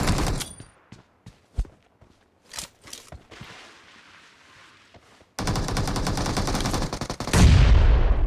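Video game automatic gunfire: a burst at the start, a few single shots, then a lull. About five seconds in, sustained rapid fire starts and swells into a louder, deeper blast near the end.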